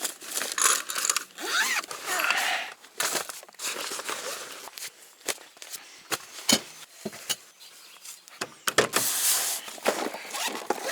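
Camping gear being handled and packed: irregular knocks and clatter of items set down, with rustling of bags and a few short squeaks.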